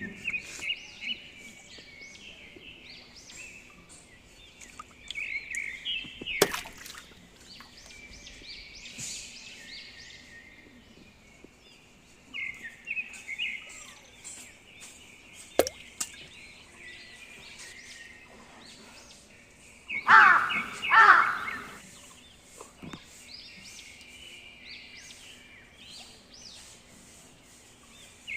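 Birds chirping and calling outdoors, many short chirps throughout, with two loud pitched calls a little after twenty seconds in and a couple of sharp clicks.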